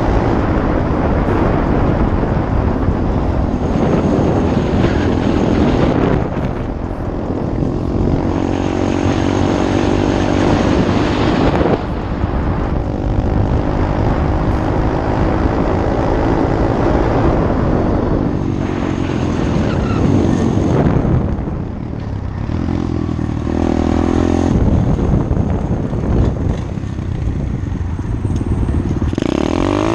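SSR 125 pit bike's single-cylinder four-stroke engine running under way, its pitch rising and falling with the throttle and dipping briefly a few times, as at gear changes or easing off.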